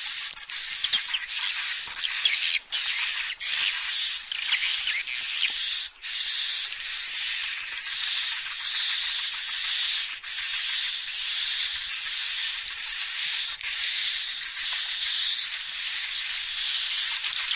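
Swiftlet lure recording: a dense chorus of swiftlet chirps and twitters over a steady high whistling tone, with sharp clicks in the first six seconds or so. This is call-and-roost sound played to draw swiftlets into a swiftlet house and settle them there.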